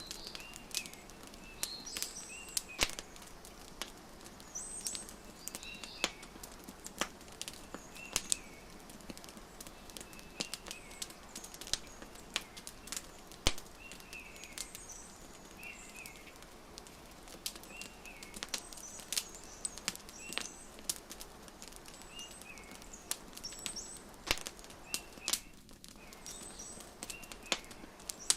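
Wood fire crackling with irregular sharp pops over a soft hiss, mixed with small birds giving short chirps every second or two.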